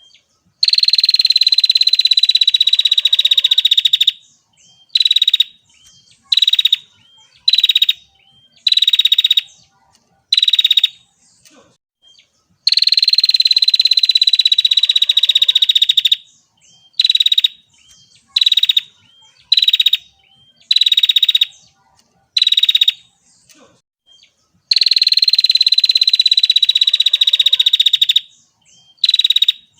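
Female prinia calling: a long, buzzy, high trill of about three and a half seconds, followed by a string of short chirps about once a second. The pattern comes round three times, with trills near the start, in the middle and near the end.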